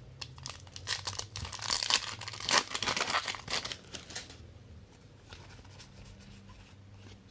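Trading-card pack wrapper being torn open and crinkled by hand: a dense run of rips and crackles for about four seconds.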